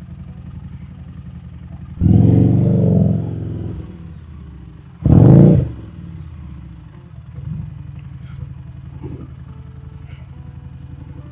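Harley-Davidson Street Rod 750's V-twin engine idling steadily, with two short, loud revs about two and five seconds in.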